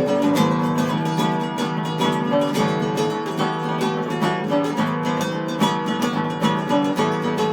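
Instrumental music on plucked acoustic strings, most likely acoustic guitars, playing a quick run of picked notes without pause.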